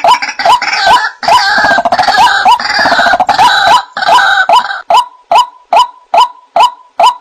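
White-breasted waterhen (ruak-ruak) calling: a rapidly repeated rising 'kwak' note about two and a half times a second. In the first few seconds harsher calls overlap it. Near the end it settles into an even series of single notes.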